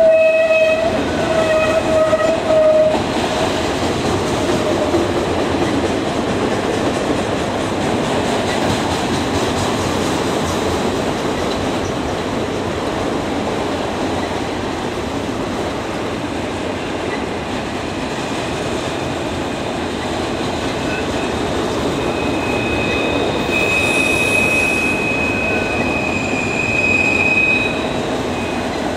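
Train horn sounding for the first few seconds, then a train rolling past with the steady rumble of its wheels on the rails. A high, steady wheel squeal comes in near the end.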